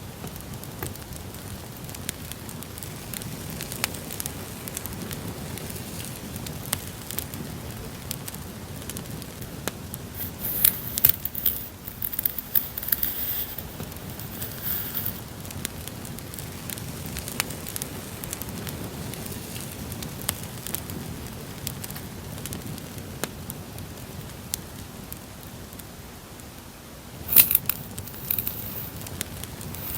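Campfire crackling, a steady bed of small pops and snaps laid under the audio in place of the microphone's noise. Louder rustling of handled items comes in for a few seconds from about ten seconds in and again briefly near the end.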